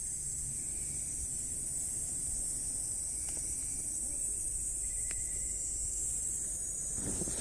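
A steady, high-pitched drone of summer insects in chorus over a low rumble, with a few brief knocks near the end.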